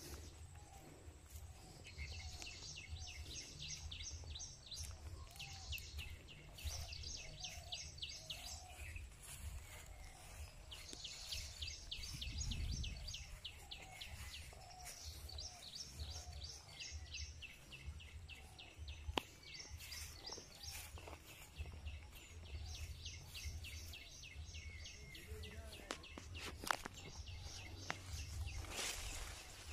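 A bird repeating short, rapid, high trills every two to three seconds, over a low rumble of wind on the microphone and a few faint clicks.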